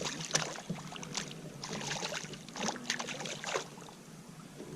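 Water splashing and sloshing against a kayak in irregular bursts, fading out near the end.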